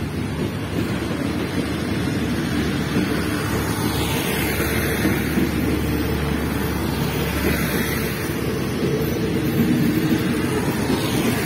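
Passenger train coaches rolling past at close range: the steady rumble of steel wheels on the rails.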